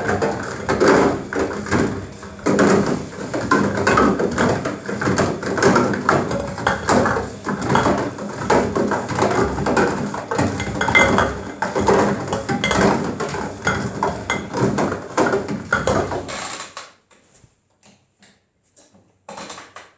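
Washing machine drum tumbling a Pringles carton in the final rinse: a continuous, irregular clattering and knocking. The tumbling stops about three-quarters of the way through and it goes almost quiet.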